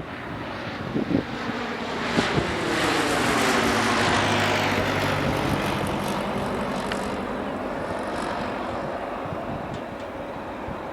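Airbus Helicopters EC135 T2+ helicopter flying past. Its rotor and engine sound swells to loudest about four seconds in, its pitch sliding down as it goes by, then slowly fades.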